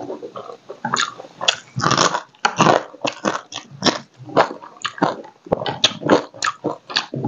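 Close-miked mukbang eating: a man biting and chewing crab curry with rice, irregular crunchy and wet mouth sounds several times a second as he works through the crab.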